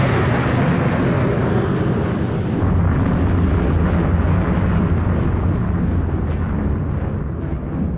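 Loud, steady roar of a fighter jet's engine with a deep rumble; its higher hiss slowly fades while the rumble holds.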